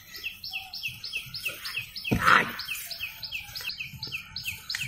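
A bird calling: short, high, falling chirps repeated evenly about three times a second, with a brief louder rush of noise about two seconds in.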